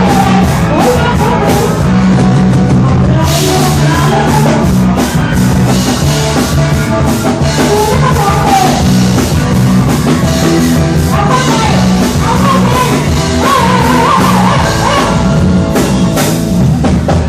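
Live rock band playing loudly with drum kit and a singer, performing the last part of a song.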